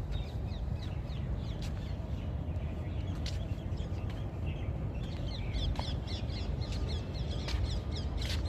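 Birds chirping in many short, quick notes that grow thicker about halfway through, over a low steady rumble.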